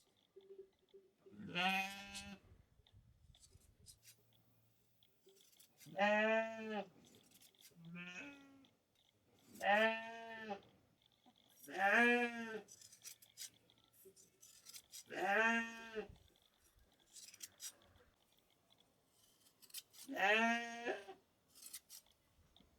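Sheep bleating: about seven separate bleats, each around a second long, with a pitch that rises and then falls, a few seconds apart.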